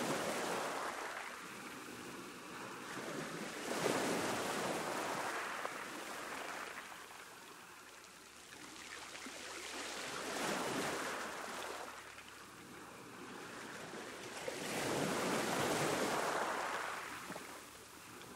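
Sea waves breaking on a shore. The surf swells and fades four times, about every five seconds, with softer wash between the breakers.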